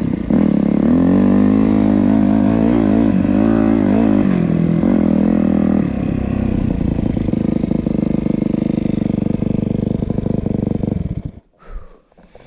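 Yamaha YZ250F single-cylinder four-stroke dirt bike engine revving up and down for about six seconds, then running at low, steady revs with a choppy beat. About eleven seconds in the engine sound stops abruptly, leaving a few faint knocks.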